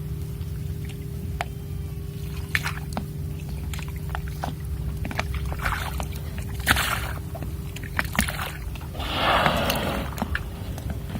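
Water slapping and dripping against a drifting boat's hull over a steady low hum, with a broad rushing whoosh lasting about a second near the end.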